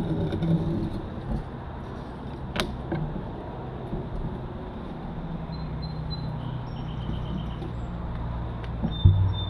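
Motorcycle engine running steadily at low revs, with a sharp click about two and a half seconds in and a thump near the end.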